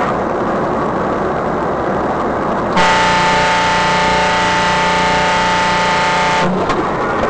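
Steady, loud vehicle road and engine noise, with a vehicle horn blaring as one long, unbroken blast for nearly four seconds from about three seconds in, then cutting off.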